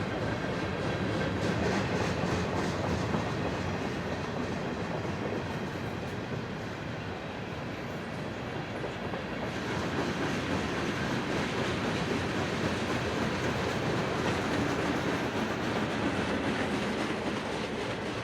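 Freight train rolling past, its wheels clattering steadily over the rail joints.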